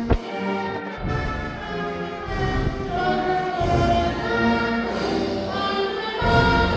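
Brass band music: wind and brass instruments holding sustained chords, with a few drum beats at the start.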